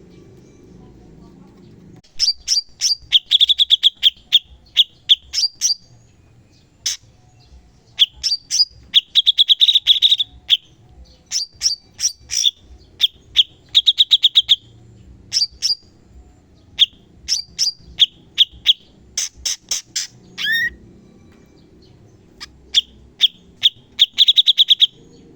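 Cucak cungkok singing in rapid bursts: runs of sharp, high chip notes mixed with short buzzy trills, with brief pauses between runs, beginning about two seconds in over a faint low background hum.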